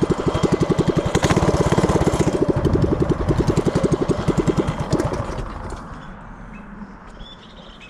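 Tillotson 212 single-cylinder engine on a Coleman CT100U mini bike running with a rapid, even firing beat, then stopping about five seconds in.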